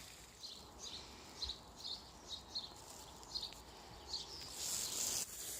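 Small birds chirping: about ten short, high calls scattered irregularly, faint over a steady hiss that grows briefly louder near the end.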